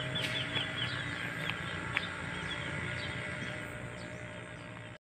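Birds chirping, a string of short, quick high calls, over a steady low background noise; the sound cuts off suddenly near the end.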